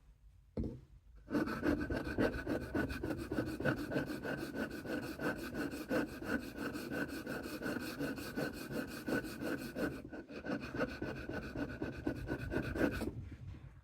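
Knife blade rubbed rapidly back and forth on a handheld axe-sharpening puck in quick repeated scraping strokes, grinding down a rounded tip. A short knock comes first; the scraping starts about a second in and stops shortly before the end.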